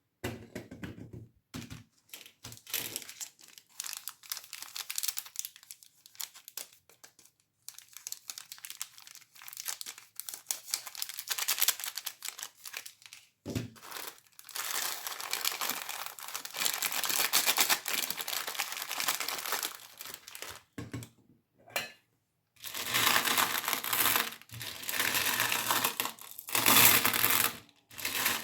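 Plastic candy wrappers crinkling and tearing as they are handled and opened, in bursts of dense crackle with short clicks and brief pauses between.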